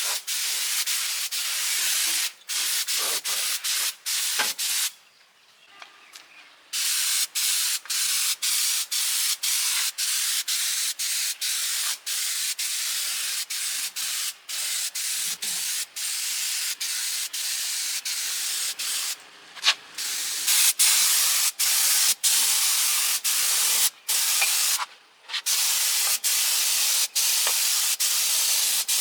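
Steady hiss of compressed air spraying, broken by many short stops and a few longer pauses.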